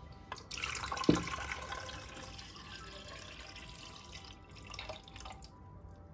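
Water running from a tap into a sink for about five seconds, with a single knock about a second in, over soft background music.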